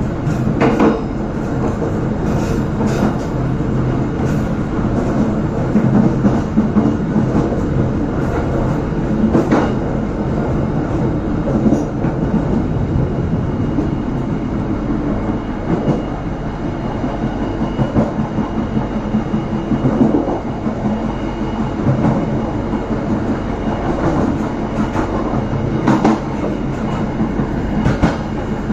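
Passenger train running along the track: a steady rumble of steel wheels on rails, with occasional sharp clacks as the wheels pass over rail joints.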